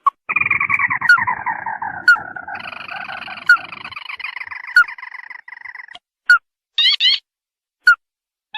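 Crake calls played as a bird-lure recording: a long chattering series that falls in pitch over about six seconds, followed by short, sharp rising call notes repeated every second or so.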